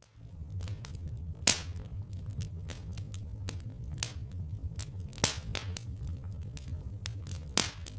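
Wood fire crackling, with irregular snaps and three loud pops, over a steady low rumble.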